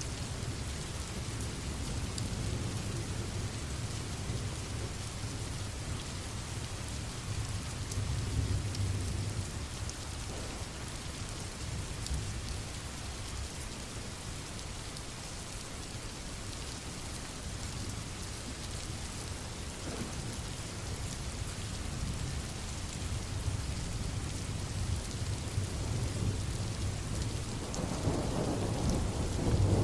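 Steady rain falling, an even hiss, with low rolling thunder rumbling underneath; the rumble swells about a quarter of the way in and builds again near the end.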